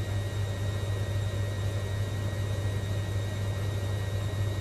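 Hoover Logic A3790 washing machine running smoothly: a steady hum and whir with no knocking.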